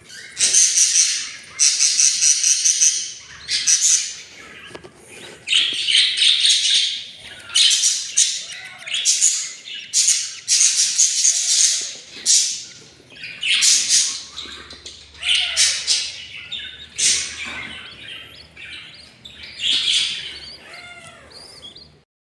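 Budgies calling loudly in a run of harsh, rasping bursts, each about a second long, with short gaps between them.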